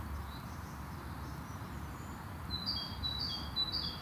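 A songbird singing, starting about two and a half seconds in: short high two-note phrases, a higher note then a lower one, repeated about twice a second over a steady low rumble.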